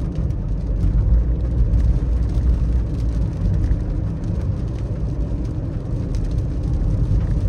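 Car driving in the rain: a steady low rumble of road and tyre noise with a hiss over it, and faint scattered ticks.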